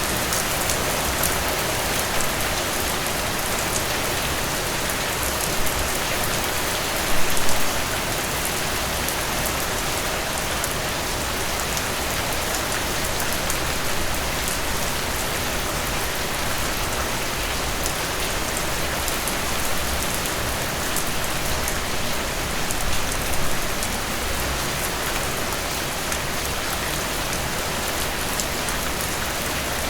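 Steady rain falling, a continuous hiss with many individual drops pattering on a surface, and a few brief louder splashes, one about seven seconds in.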